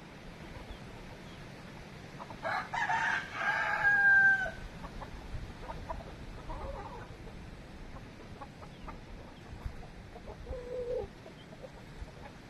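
Ornamental rooster crowing once, loud, about two and a half seconds in and lasting about two seconds, ending on a long held note. Softer short chicken clucks follow later.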